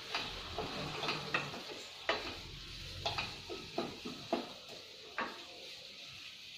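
Diced raw mango frying in oil in a stainless steel pot: a steady sizzle, with a wooden spatula stirring and knocking against the pan in irregular sharp knocks every half second or so.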